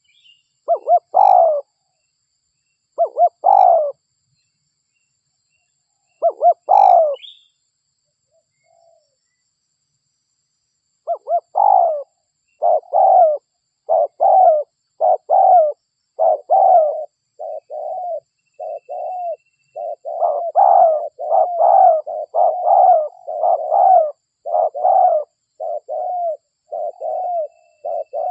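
Spotted dove (derkuku) cooing. A few separate call phrases come in the first seven seconds, then after a pause a fast, unbroken run of coos starts about eleven seconds in, at roughly two notes a second.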